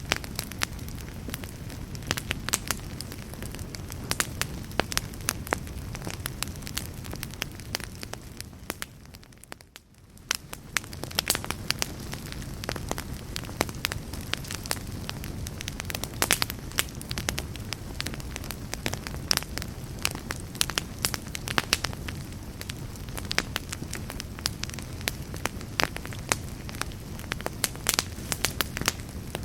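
Wood fire burning in a fireplace: irregular sharp crackles and pops over a steady low rumble of flames. The sound fades briefly almost away about ten seconds in, then swells back.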